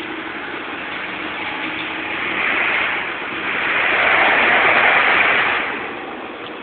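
Locked wheels of an air-braked truck being dragged along the ground while it is pulled, a rough scraping noise that swells twice, the second time louder and longer. The brakes are locked because the truck ran out of air.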